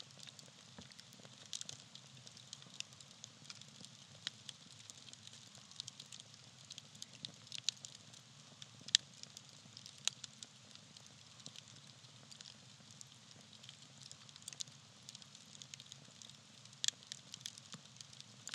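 Small campfire of burning tree bark crackling, with frequent irregular pops over a faint steady hiss of the flames. The sharpest pops come about nine seconds in and again near the end.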